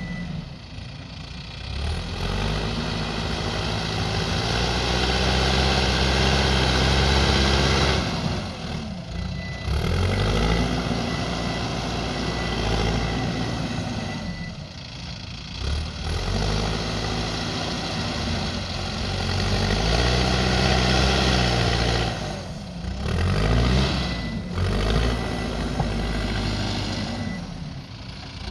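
Backhoe loader's diesel engine working under load, revving up and dropping back again and again, the pitch rising and falling every few seconds.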